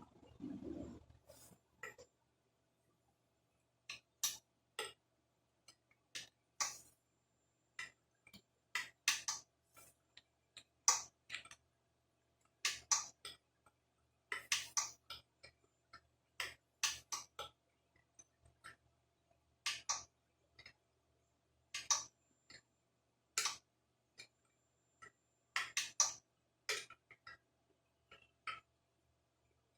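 Small metal parts and hand tools clicking and clinking irregularly, one or a few sharp knocks at a time with pauses between, as nuts and bolts are handled and fitted.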